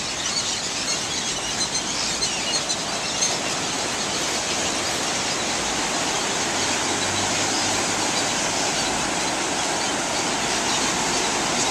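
Dense, steady din of a huge flock of birds calling together in their roost trees, with high squeaks scattered through it.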